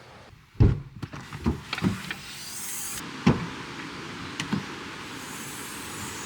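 A loud thump followed by a handful of lighter knocks, over a steady hiss that is likely rain.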